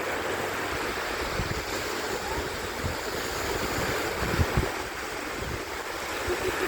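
Sea waves washing onto a beach, with wind buffeting the microphone in low gusts, the strongest about four and a half seconds in.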